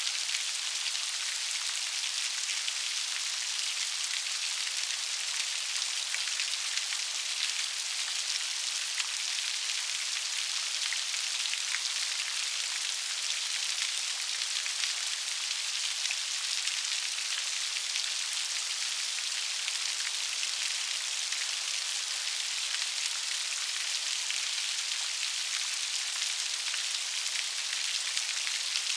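Steady rain falling, a dense even hiss of many fine raindrops hitting a surface.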